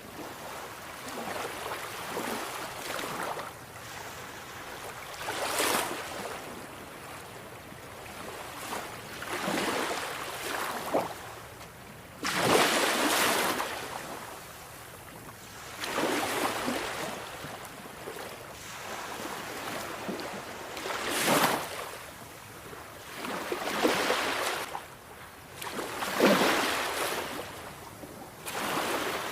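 Sea waves breaking and washing in, a loud surge of surf every few seconds at uneven intervals over a steady hiss of water.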